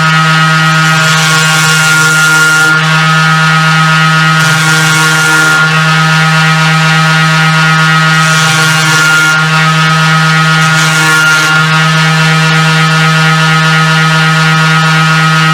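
Table saw motor running at a steady pitch, with a high hiss rising and falling several times as wood is fed through the blade.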